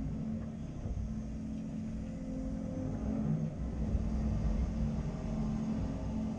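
Caterpillar 330 excavator's diesel engine running steadily under work, a low drone whose pitch rises and falls slightly.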